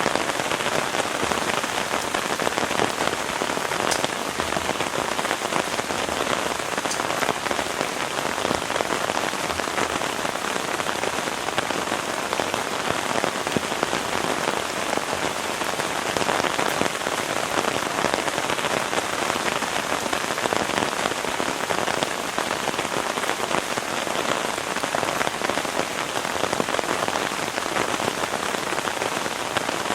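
Heavy rain falling steadily, a dense patter of drops landing on a surface.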